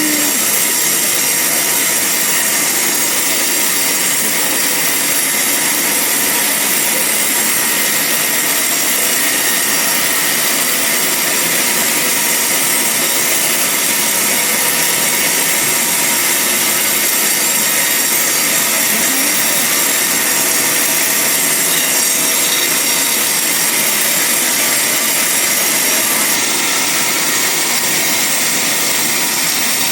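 Band sawmill running steadily through a log: a continuous loud saw noise with a high, steady whine.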